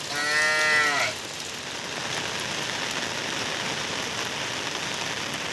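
A sheep bleats once, a wavering call about a second long, over steady rainfall.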